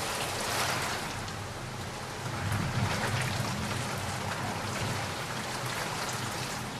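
Steady rain falling, with a low rumble of thunder swelling up about two and a half seconds in and easing off a few seconds later.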